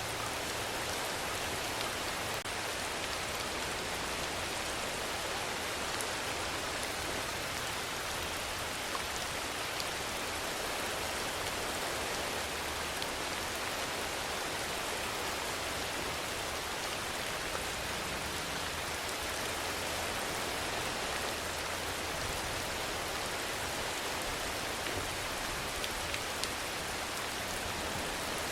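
Steady rainfall, an even hiss of rain falling on a surface, with a few individual drops ticking out now and then.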